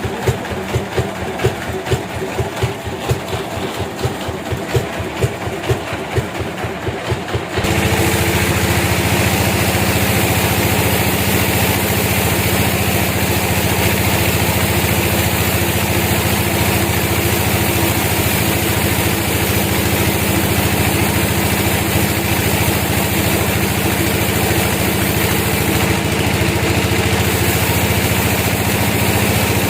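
An engine running with a slow, regular pulsing, then changing abruptly, about seven seconds in, to a louder, steady running that lasts to the end.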